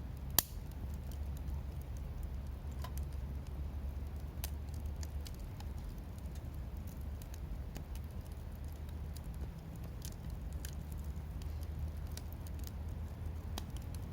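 Firewood burning in a wood grill, crackling with scattered sharp pops and one loud pop about half a second in, over a steady low rumble.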